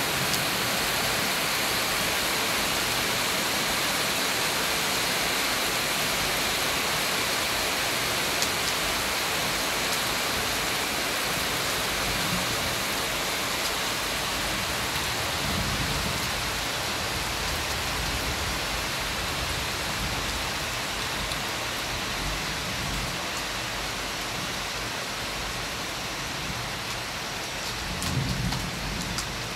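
Rain falling steadily in a storm, with low rumbles of thunder around the middle and again near the end.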